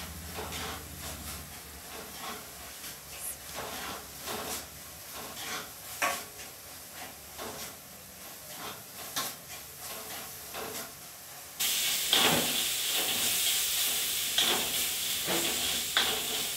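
Wooden spatula stirring and scraping a frying masala in a brass kadhai, with frequent light knocks against the metal over a low sizzle. About two-thirds of the way through the sizzling suddenly grows much louder and stays so.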